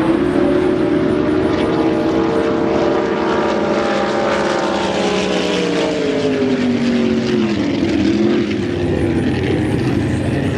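Racing drag boat engine running loud at high revs. About two-thirds of the way through, its pitch falls over a couple of seconds, then holds lower.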